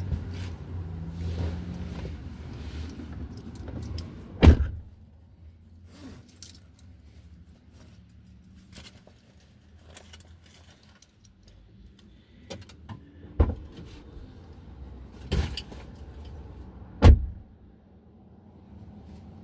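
Car's low engine rumble that drops away after about four seconds, with four sharp knocks or thumps, one about four seconds in and three close together near the end, plus light rattling in between.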